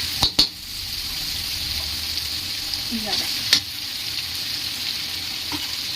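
Garlic and ginger sizzling in hot oil in a kadai as they are stirred, with a steady hiss and a few sharp knocks of the utensil against the pan.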